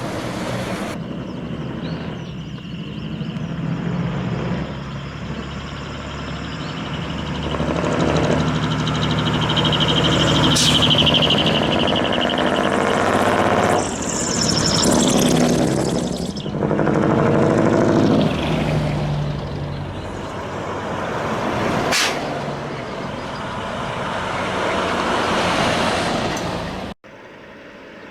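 Diesel engines of decorated trucks with split exhaust manifolds (mani-wari) driving past one after another, running loud and raw as the exhaust bypasses the muffler, the sound swelling and fading with each truck. Two short sharp sounds are heard along the way, and the sound cuts off abruptly near the end.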